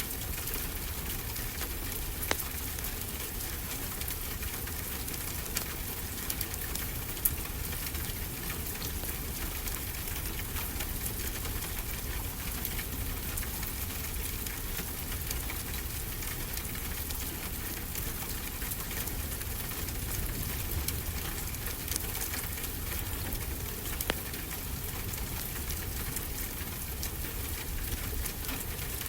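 Wood fire crackling, with sharp pops every few seconds, over a steady hiss and low rumble of ocean surf.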